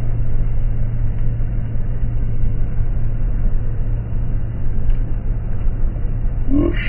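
Steady low rumble of a car being driven, heard from inside the cabin: engine and road noise as a constant drone.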